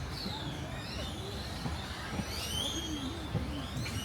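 Outdoor ambience: a steady low rumble like traffic, under repeated high whistled calls that fall in pitch, with faint voices in the background.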